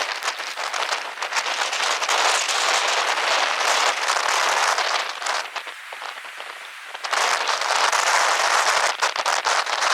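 Ground-blizzard wind driving snow in gusts: a loud, crackling hiss that eases off about five and a half seconds in and surges back a second and a half later.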